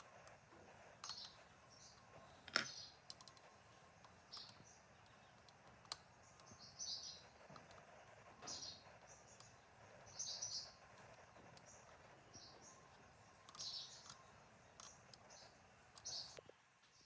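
Faint, short bird chirps repeating about once a second over a quiet background, with a few sharp clicks in between, the loudest about two and a half seconds in.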